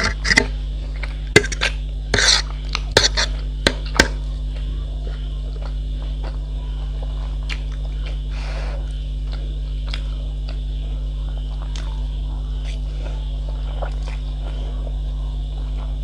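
Eating sounds: cutlery clicking against a plate and chewing, several sharp clicks close together in the first four seconds, then only faint occasional ticks. A steady low hum runs underneath.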